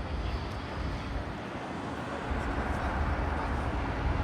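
Distant jet aircraft engine rumble: a steady low noise that grows a little louder about halfway through.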